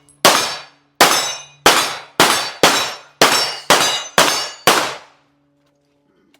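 A gun fired rapidly in semi-automatic, nine shots about half a second apart, each with a short ringing tail, stopping about five seconds in.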